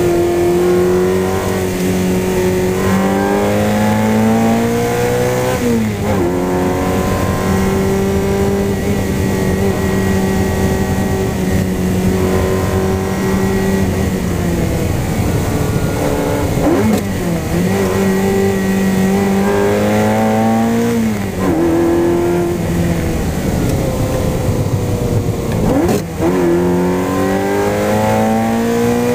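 Ferrari 348's V8 engine heard from inside the cabin under hard acceleration, its pitch climbing through each gear and dropping sharply at each of about four gear changes, with a steadier stretch of held revs in the middle.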